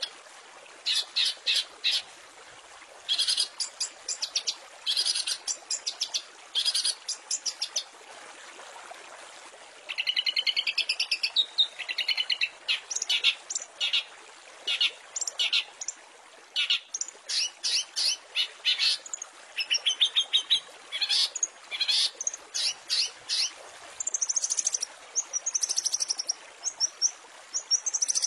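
Long-tailed shrike (cendet) singing a harsh, chattering song of short bursts of rapid notes with pauses between them. Longer rapid runs start about ten seconds in, and higher whistled notes come near the end, over a steady background hiss.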